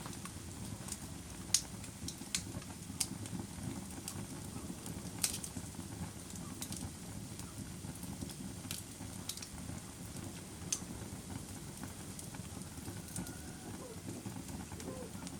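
Wood fire burning in a fireplace: a steady low rumble of flames with sharp, irregular crackles and pops about once a second.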